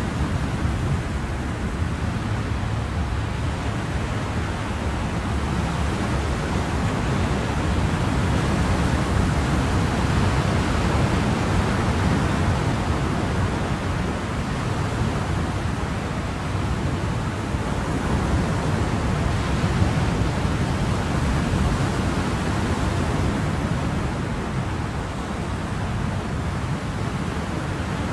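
Ocean waves and surf: a steady rushing wash that swells and eases slowly over several seconds at a time.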